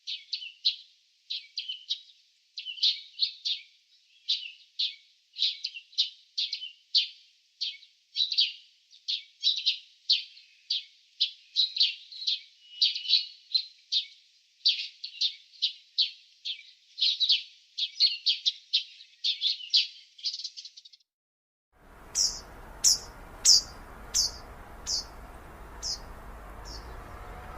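Songbirds chirping in quick, dense runs of short notes. About 22 seconds in the recording changes to one with a steady background hiss, where a bird gives a series of about eight higher single chirps that slow down and fade.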